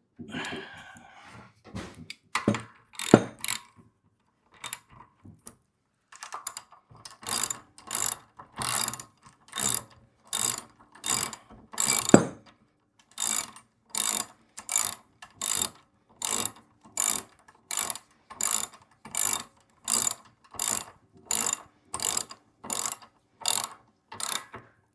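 Hand ratchet wrench tightening a bolt on the plate compactor's handle mount: a few uneven strokes at first, then a steady run of ratcheting strokes, about one and a half a second, as the bolt is run down snug.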